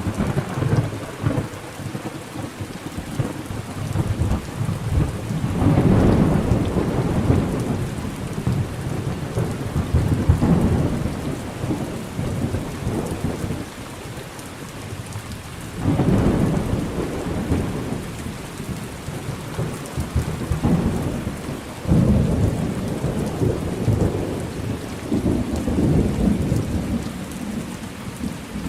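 Rain falling steadily through a thunderstorm, with repeated rolls of low thunder that swell and fade away; new peals break in suddenly at the start, a little past the middle, and again some seconds later.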